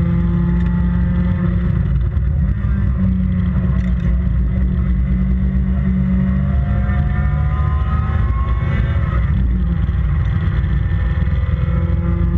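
Toyota 4A-GE twin-cam four-cylinder in a racing MG Midget, running hard under load. The engine note climbs through the revs, drops sharply about nine and a half seconds in, then climbs again.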